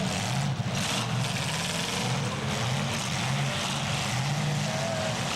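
Demolition derby cars' engines running hard together, a steady loud drone of full-size V8-type engines with no single clear crash standing out.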